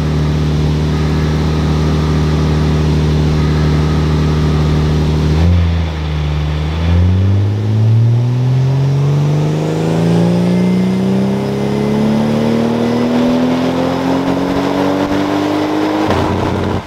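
Toyota Supra's 2JZ-GTE twin-turbo straight-six running on a hub dyno during a power run with added ignition timing. It holds steady revs for about five seconds, dips briefly, then pulls with the engine note climbing steadily for about nine seconds before cutting off suddenly near the end.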